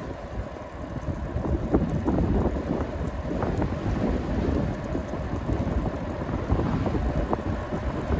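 Wind on the microphone and road noise from riding a bicycle: a steady low rush with scattered small clicks and rattles.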